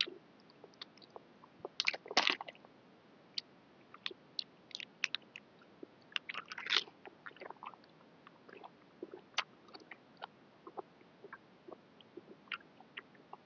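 Close-up eating sounds: wet chewing, lip smacks and quick mouth clicks from someone eating boat noodles with stewed pork, louder twice, about two seconds in and again around the middle.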